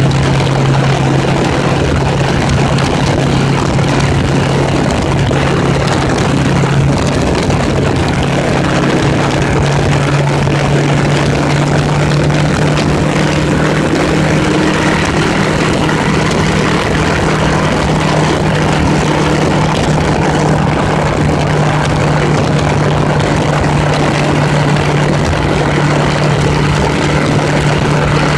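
Honda Gold Wing motorcycle engine running at a steady cruise, with steady wind rush. The engine note steps up slightly about seven seconds in.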